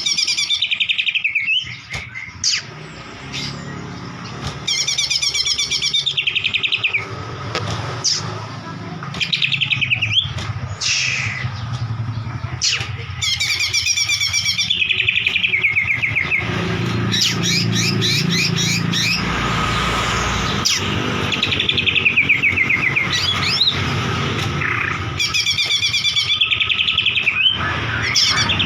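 White-rumped shama (murai batu) singing: varied clear whistles broken by fast rattling trill phrases that recur every few seconds, over a low steady hum.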